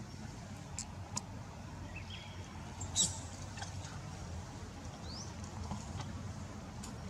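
Monkeys giving a few brief, high-pitched squeaks and chirps over a steady low background rumble, with several sharp clicks.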